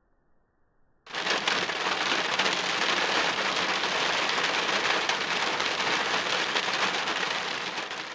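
Heavy rain falling: a steady, dense hiss that cuts in suddenly about a second in and begins to fade near the end.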